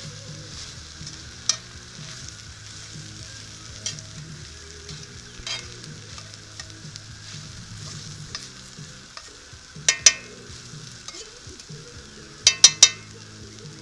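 Catfish, peppers and garlic sizzling steadily in a cast iron skillet while being stirred. A utensil clinks against the pan now and then, twice about ten seconds in and three times in quick succession near the end.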